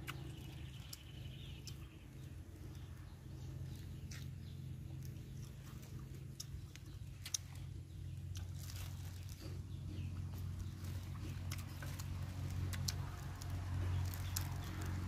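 Close-up chewing and crunching of a raw vegetable stalk, heard as scattered short crisp clicks over a steady low hum.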